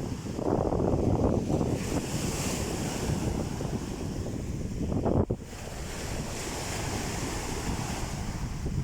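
Wind buffeting the microphone over sea waves washing on the shore. The wind is stronger in the first two seconds, and a short hard gust about five seconds in is followed by a sudden drop in level.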